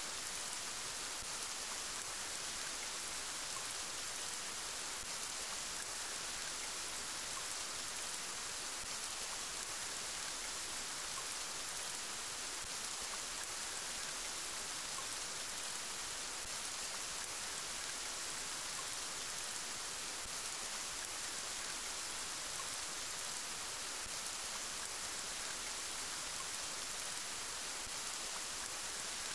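Steady rain falling, an even hiss that does not change, with no single drops, thunder or other events standing out.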